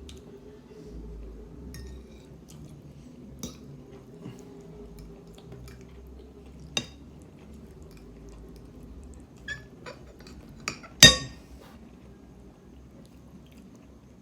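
Eating utensils tapping against a dish of instant noodles: a few soft clicks, then one sharp, ringing clink about eleven seconds in.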